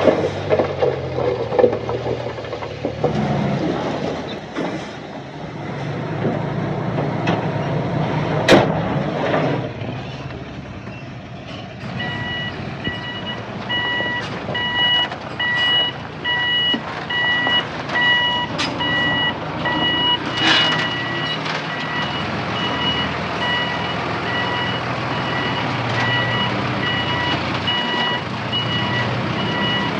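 Heavy machinery engine running, with a few sharp knocks in the first half. About twelve seconds in, a reversing alarm starts and keeps beeping at an even pace.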